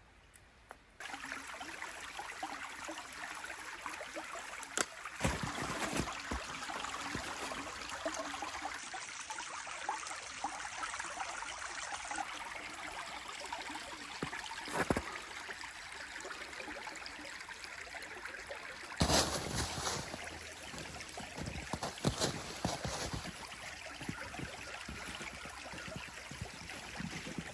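Steady rush of a running stream, with scattered knocks and thumps over it, the loudest a cluster a little over two-thirds of the way through.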